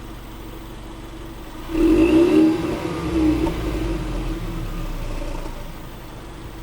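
Stock exhaust of a 2018 Ford Mustang EcoBoost's 2.3-litre turbocharged four-cylinder idling, then revved to about 2,000 rpm a little under two seconds in, held for a few seconds and let fall back to idle near the end. The exhaust is warm and fully stock, with muffler and resonator still in place.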